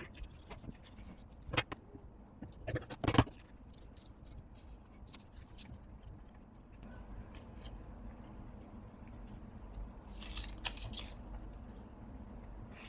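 Scissors cutting paper labels: a few sharp snips early on, then a quick run of snipping about ten seconds in.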